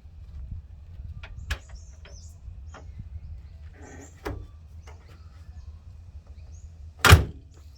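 Scattered light clicks and knocks over a low steady hum, with faint high chirps, then one loud knock about seven seconds in.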